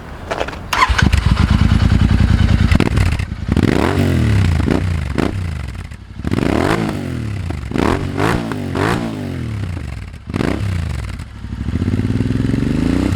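Royal Enfield Interceptor 650's parallel-twin engine, breathing through aftermarket Powerage Performance exhausts with dB killers fitted. It starts about a second in, then is revved in a series of quick throttle blips that rise and fall.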